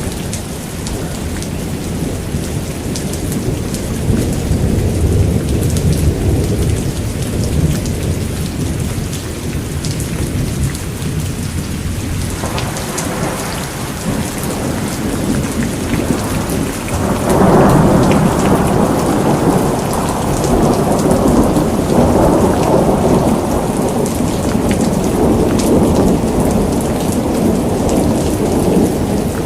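Heavy rain pouring on a surface, with thunder rumbling. A louder roll of thunder starts about 17 seconds in and goes on to the end.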